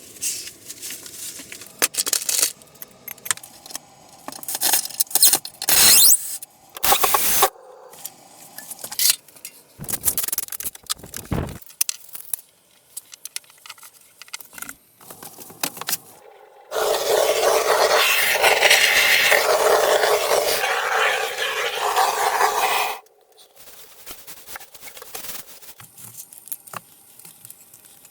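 Scrapes, knocks and clatters of objects being handled, as short separate strokes. About two-thirds of the way in comes a steady noisy stretch lasting about six seconds, which stops suddenly.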